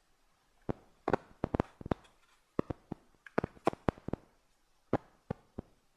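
About twenty sharp, irregular clicks and taps in small clusters, loudest a little over a second in and again about halfway through. They come from tools such as tweezers and pins handling a dried Goliath birdeater tarantula specimen as its legs are set out.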